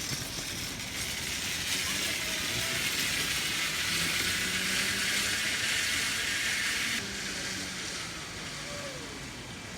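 Zipline trolley pulleys running along the steel cable: a steady rushing hiss that builds over the first few seconds and drops off suddenly about seven seconds in.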